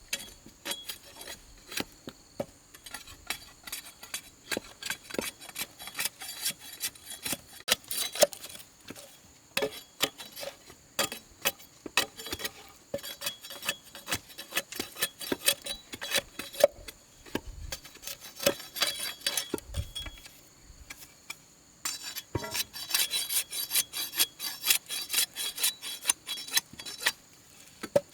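A hand tool rasping on bamboo in quick repeated strokes, with sharp clicks in between; the strokes come thicker and closer together about three quarters of the way through.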